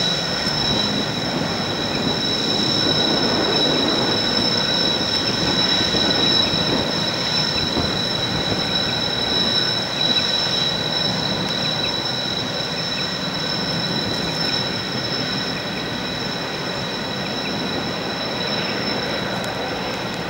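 Grain train wagons and a diesel banking locomotive climbing a grade, the wheels giving a steady high-pitched squeal in two held tones over the train's running noise. The sound eases slightly toward the end.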